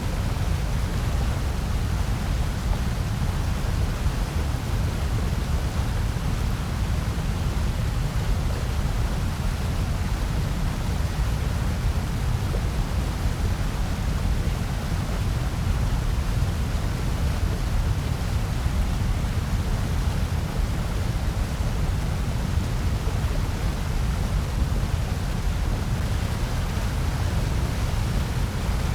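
Continuous generated noise, sold as white noise: an even, unchanging rush, heaviest in a deep low rumble, with a fainter hiss through the highs.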